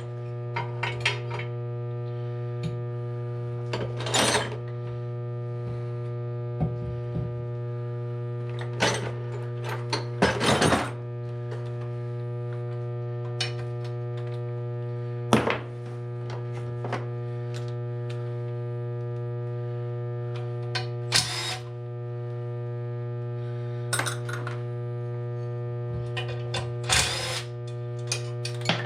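Metal engine parts and hand tools clinking and knocking now and then as the motorcycle engine is taken apart, over a steady electrical hum.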